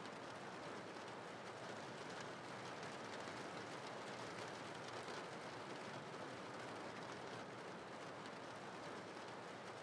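Faint steady rain: an even hiss of falling rain with scattered fine droplet ticks.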